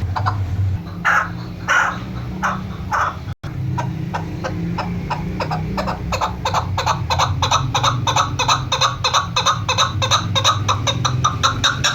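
Chukar partridge calling: a few separate clucking notes, then after a brief break a fast, even run of clucks at several a second. A steady low hum runs underneath.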